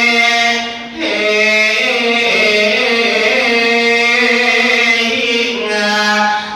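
A single voice chanting in the drawn-out melodic style of a Thai ornamented sermon, holding long notes that bend slowly in pitch, with a brief break about a second in.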